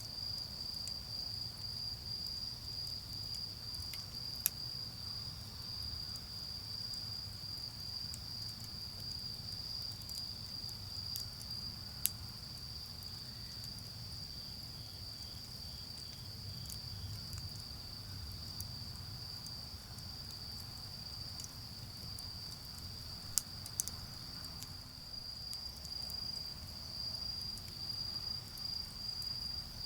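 Autumn crickets trilling in one steady, unbroken high-pitched chorus, with three sharp pops from the burning charcoal fire, about 4, 12 and 23 seconds in. Underneath runs a faint low rumble of distant road traffic.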